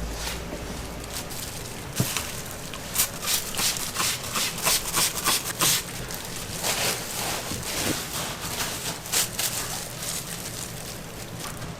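Food-preparation work in a donut-shop kitchen: an irregular string of sharp knocks, taps and scrapes over a steady low hum, thickest around the middle.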